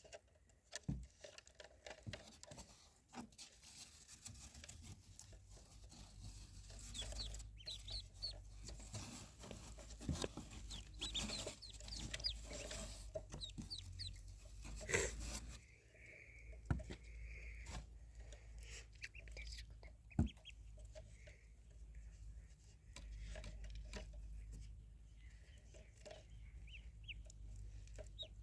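Baby fowl peeping: many short, high calls scattered throughout, with occasional clicks and knocks over a low hum.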